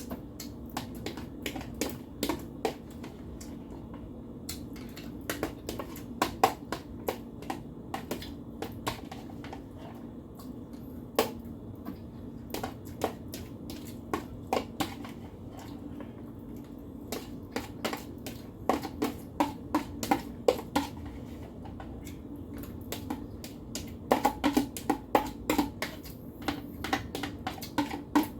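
Eating sounds: irregular sharp clicks and taps, several in quick clusters, over a steady low hum.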